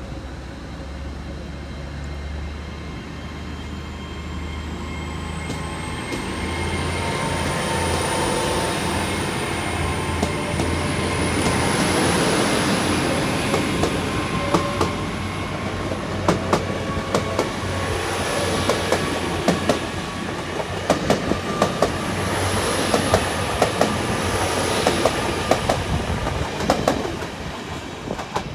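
GWR Class 800 Intercity Express Train pulling away under its own power: a low engine hum and a high whine that rises in pitch as it gathers speed, then a run of wheel clicks over the rail joints and points from about halfway through.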